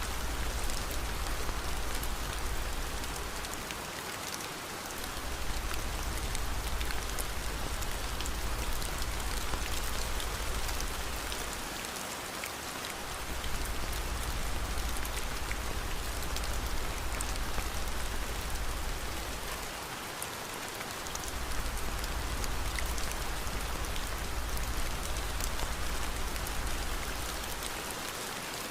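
Steady rain, with a fireplace crackling in the mix. A low rumble underneath drops away briefly about every eight seconds.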